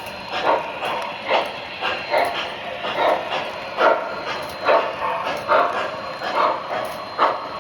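MTH O-gauge model of the Pennsylvania Railroad 6200 steam turbine running, its sound system giving a regular chuff a little more often than once a second over a steady high whine.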